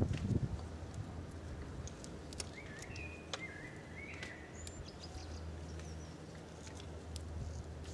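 Birds chirping, with several short wavering calls in the middle and a few higher notes, over a steady low background hum and a few sharp clicks.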